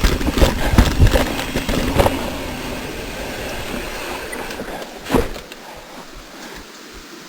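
Mountain bike riding down a rough, slippery dirt trail: rumbling and rattling with repeated knocks over the first couple of seconds, then rolling more quietly. One sharp knock comes about five seconds in.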